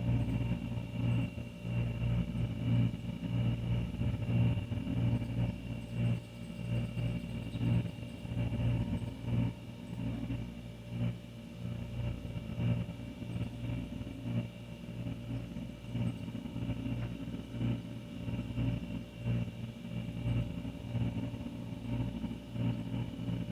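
Old refrigerator running: a steady low hum with faint higher steady tones, its loudness wavering a little.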